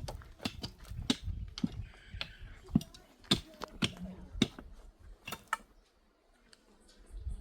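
Irregular sharp clicks and knocks, two or three a second, thinning out about five and a half seconds in.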